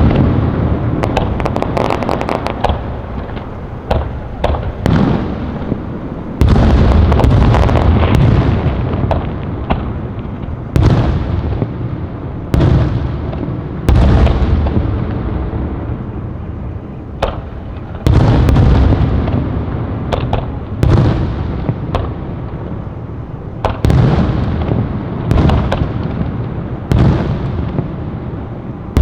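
Fireworks exploding: a string of loud aerial booms every one to four seconds, each echoing away slowly, with crackling between them.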